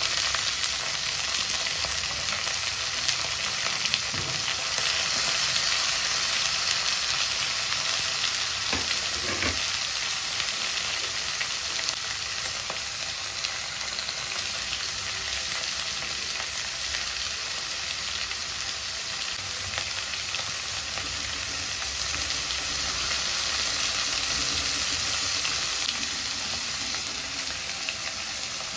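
Chopped onions and tomatoes frying in a metal kadai, a steady sizzle throughout with a couple of faint knocks.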